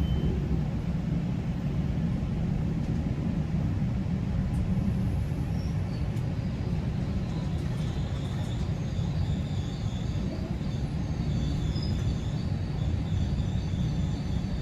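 Steady low rumble of a GO Transit train heard from inside a passenger coach, with faint high thin tones coming in about halfway through.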